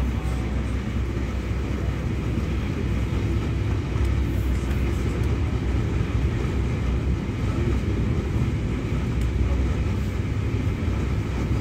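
Steady low rumble of a passenger train running along the track, heard from inside a carriage.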